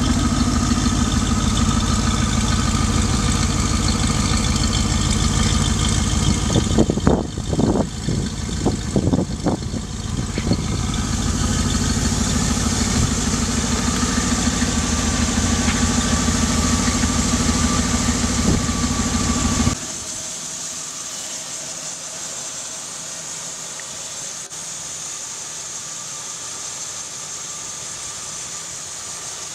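1966 Ford Mustang engine idling steadily through its exhaust, surging and dipping a few times about seven to ten seconds in. About twenty seconds in the sound drops abruptly to a quieter, steady running heard at the engine bay.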